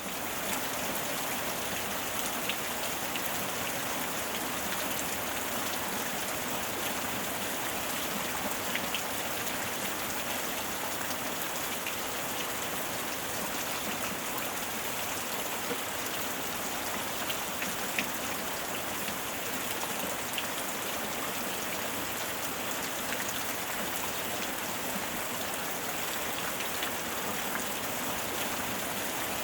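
Steady rainstorm: a dense, even hiss of rain with scattered individual drops tapping.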